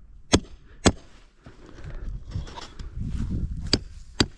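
Sharp blows of a framing hammer knocking on concrete form stakes: two strikes about half a second apart near the start, and two more near the end.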